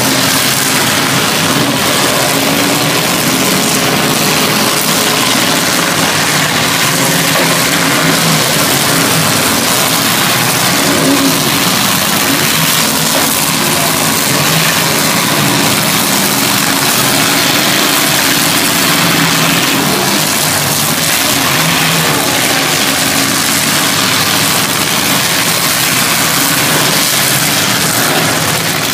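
Several demolition derby cars' engines running at once, revving up and dropping back in a loud, continuous mix as the cars drive and ram each other in a dirt pit.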